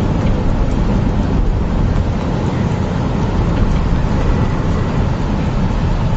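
Heavy vehicle running: a steady, loud, low rumble with a noisy hiss over it.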